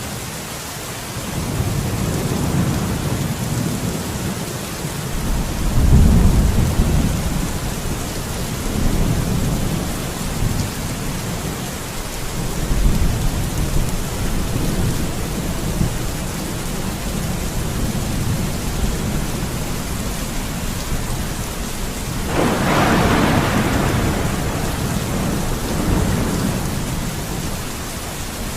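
Steady heavy rain with thunder rumbling low almost throughout. The loudest roll comes about six seconds in, and a sharper, brighter thunderclap breaks about three quarters of the way through and rolls away over a few seconds.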